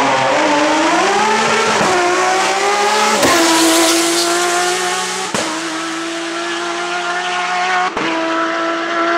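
Race car engine running hard at high revs up a hillclimb course. The note climbs early on and then holds high, broken by short sharp cuts about four times as the driver shifts gear.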